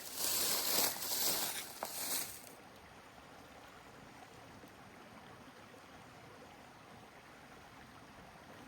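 Rushing river water, a loud steady hiss that cuts off abruptly about two and a half seconds in, leaving only a faint steady hiss.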